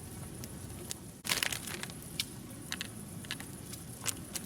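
A knife cutting slits into a banana: a short crunchy burst about a second in, then scattered sharp clicks.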